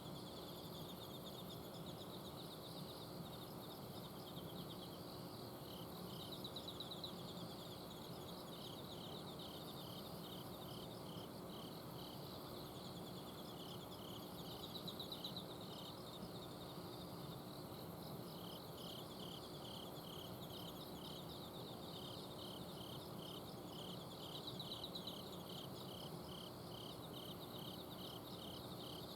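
Autumn night insects singing together: overlapping high trills and a regular, evenly pulsed chirp, over a faint steady hum from an air conditioner's outdoor unit.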